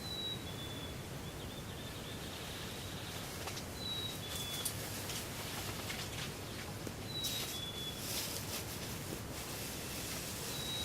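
A small songbird repeating a clear two-note whistle, the second note a little lower and longer, about every three and a half seconds over a steady outdoor hiss.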